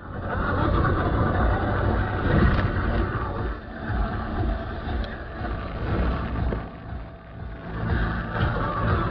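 Car engine and road noise: a steady low hum with rushing noise that swells and eases every second or two.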